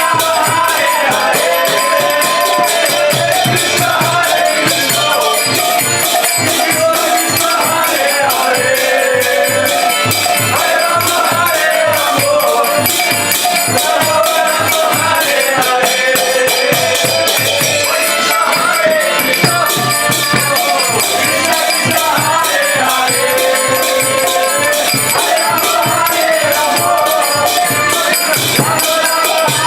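Kirtan: a melodic chant sung over a steady fast clash of hand cymbals (karatalas) and a regular low drum beat.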